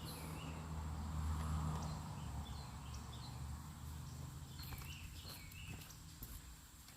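Faint outdoor background: a low steady rumble, a little louder in the first couple of seconds, with scattered faint chirps and a few light clicks about two-thirds of the way through.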